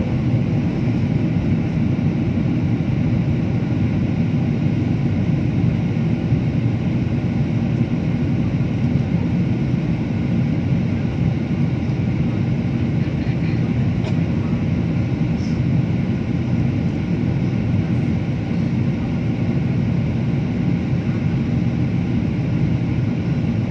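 Steady drone of engines and rushing air inside a passenger aircraft cabin, even and unbroken, deepest in the low range.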